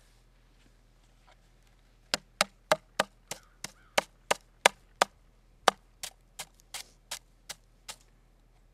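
A run of about nineteen sharp strikes, roughly three a second, starting about two seconds in and stopping near the end: a hand tool chopping at hard-packed snow and ice on a car.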